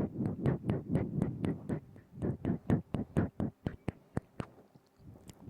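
Close-up mouth sounds: a quick, regular series of wet tongue clicks and lip pops, about four or five a second, stopping about four and a half seconds in.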